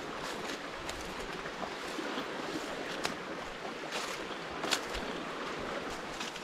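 Rain-swollen creek running over rocks, a steady rush of water, with a few sharp knocks, the loudest about three quarters of the way through.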